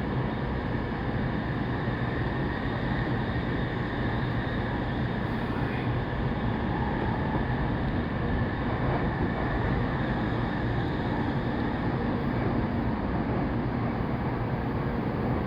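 Saikyo Line commuter train running at steady speed, heard from inside the carriage: an even rumble of wheels on rail and running noise with no let-up.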